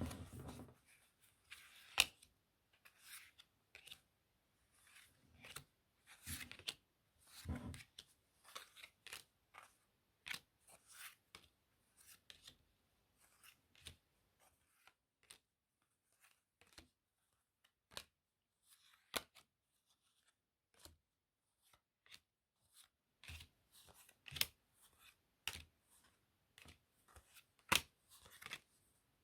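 Playing cards handled close to the microphone: irregular crisp clicks, taps and short rustles of card stock, growing sparse through the middle.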